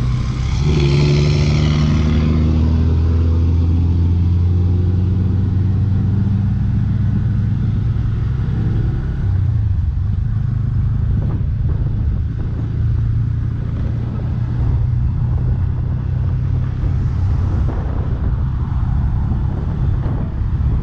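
Bajaj Pulsar N160's single-cylinder engine running steadily while riding, with wind noise over the microphone. A brief hiss sounds near the start, and the steady engine hum gives way to rougher, noisier road and wind sound about halfway through.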